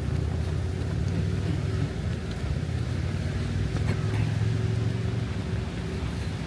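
A low, steady engine rumble with a faint hum, swelling slightly about four seconds in and easing near the end.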